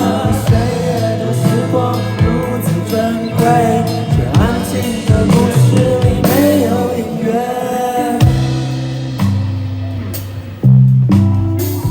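A rock band playing live. A wavering melody line runs over the band at first, and from about eight seconds in the bass and drums come in with heavy, held hits.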